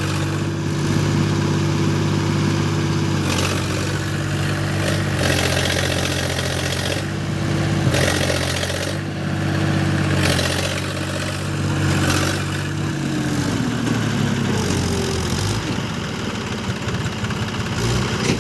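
Tractor diesel engine running steadily under load, with rushes of noise coming and going every second or two. Its pitch sags about two-thirds of the way through.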